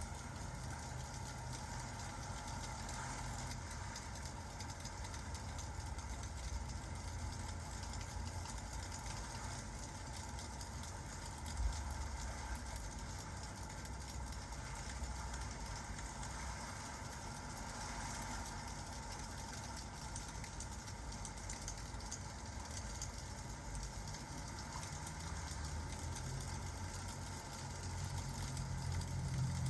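Steady rain and crackling fireplace ambience with a low rumble underneath, and a single thump about twelve seconds in.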